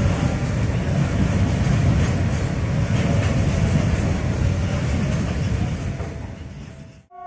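Open steel freight wagons rolling past close by: a steady rumble of wheels on rail. It fades about six seconds in and cuts off abruptly just before the end.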